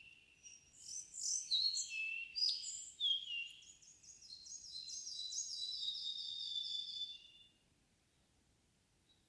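A songbird singing one long phrase in an evening forest. It starts with varied clear, high notes and ends in a fast run of repeated notes, then stops about seven and a half seconds in.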